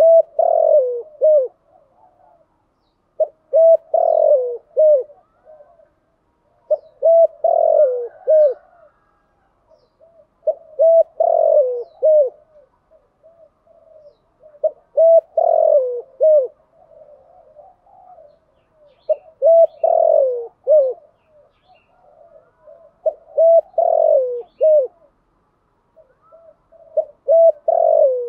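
Spotted dove cooing: a multi-note coo phrase repeated about every four seconds, eight times over. This is the kind of decoy call used to lure and stir up male doves.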